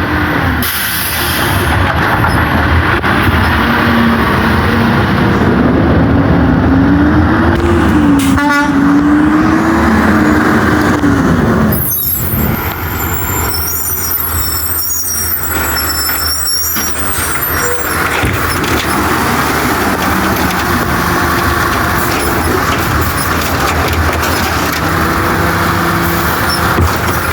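Autocar WX64 garbage truck's engine revving up and holding high, then dropping back about twelve seconds in, running on after that with a lower rise near the end. Brief high squeals come just after the revs drop, as the truck works its Amrep side-loader body.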